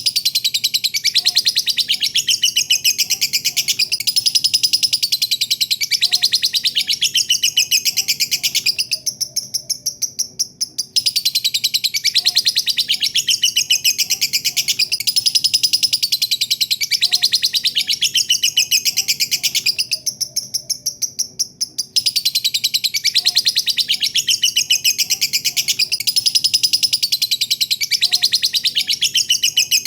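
Lovebird giving its long 'ngekek' song: a rapid, high-pitched chattering trill sung in three long bouts of about nine seconds each, with short pauses between them.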